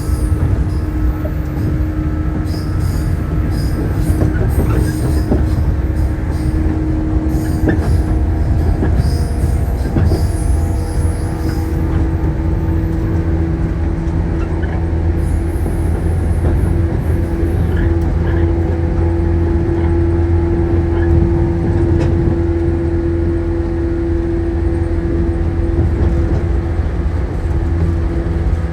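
Shinano Railway 115-series electric train heard from inside a car while running: a steady low rumble from the bogies and rails under a constant motor hum that rises slightly in pitch about halfway through. Faint high wheel squeals and light ticks come through during the first dozen seconds.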